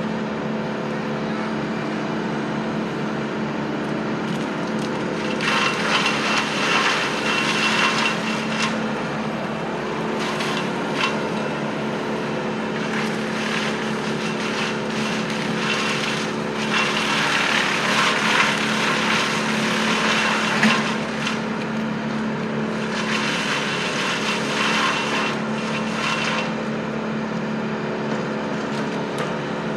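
Engine of a Kubota work machine running steadily at a work site, with several louder stretches of a few seconds each of noisy crunching and cracking, typical of wood and brush being broken up as debris is cleared.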